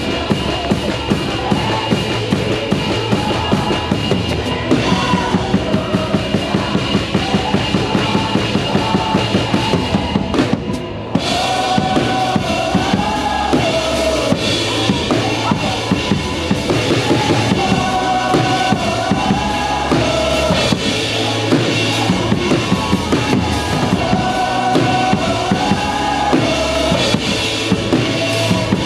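Drum kit playing a steady driving beat with kick, snare and cymbals under live worship band music. About ten seconds in there is a brief break before the full band comes back in.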